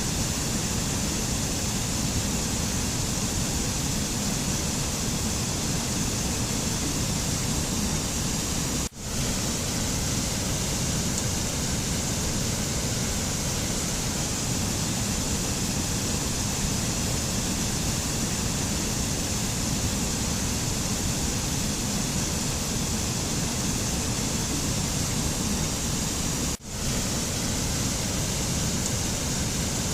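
Steady, even rushing noise with no tones or rhythm, of the kind used as a nature-sound bed for meditation. It cuts out for a split second twice, about nine seconds in and again near the end.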